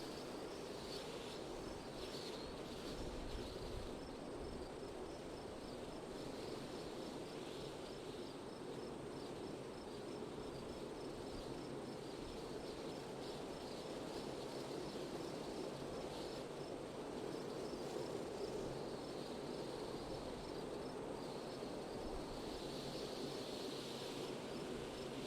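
Steady wind noise, with a faint, regular high chirping of insects over it.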